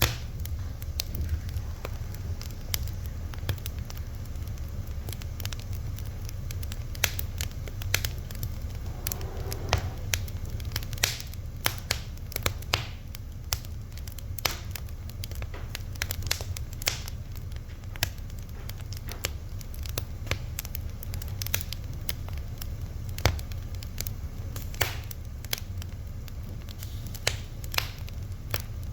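Wood fire crackling: irregular sharp pops and snaps several times a second over a steady low rumble of the burning.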